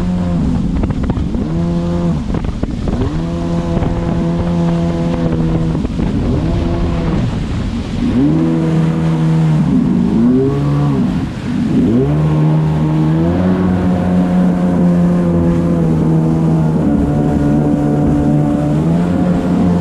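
Jet ski engine running under way, holding a steady pitch for stretches. Several times, most of all around the middle, the pitch drops and climbs again as the throttle is eased off and opened.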